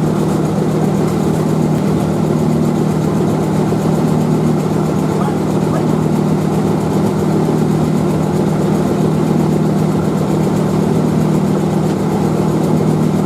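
A machine running steadily with a loud, even low hum, like a motor or blower.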